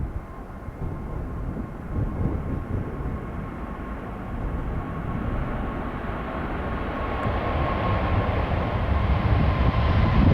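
Jet airliner engines on takeoff: a broad rumble with a thin steady whine, growing steadily louder as the aircraft comes nearer.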